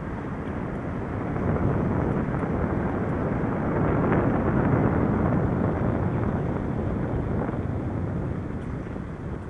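Wind buffeting the microphone of a moving bicycle rider: a steady rumbling rush that swells a second or so in and eases off near the end.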